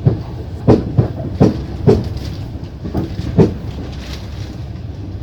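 Passenger train's wheels knocking over rail joints: a run of about seven uneven knocks over a steady low rumble.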